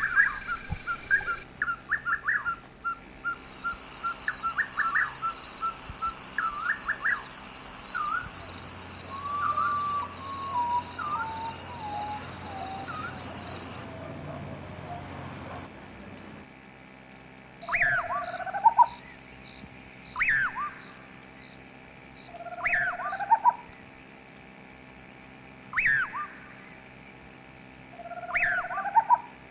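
Birds calling. First comes a run of quick repeated notes, then a steady high-pitched buzz for about ten seconds. From about halfway, one bird repeats the same short rising call every two to three seconds.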